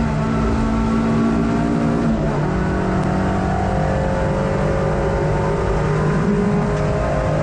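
Hot hatch race car's engine running hard, heard from inside the cabin, with its note over road and wind noise. The engine pitch shifts about two seconds in and then holds fairly steady.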